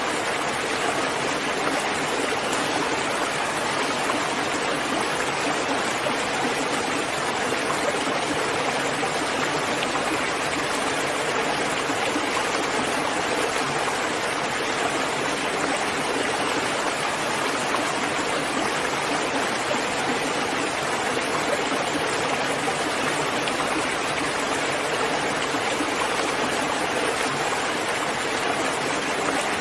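Steady, even rain falling, with no changes or distinct drops standing out.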